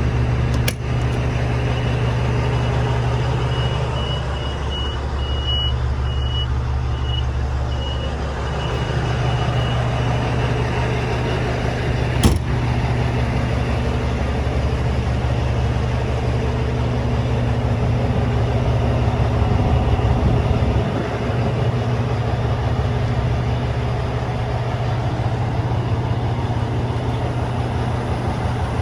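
Caterpillar C-16 diesel of an Oshkosh Striker 3000 crash truck running steadily, its note shifting about two-thirds of the way through. A reversing alarm beeps in a short series a few seconds in, and a sharp knock is heard about twelve seconds in.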